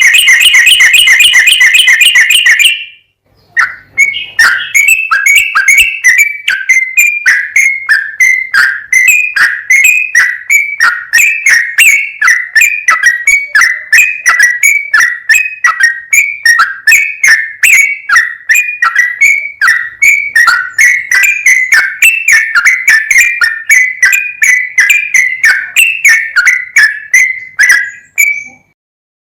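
Yellow-vented bulbul (trucukan) singing: a rapid trill of repeated notes, a brief pause, then a long steady run of short, clear chirping notes, about two to three a second, that stops shortly before the end.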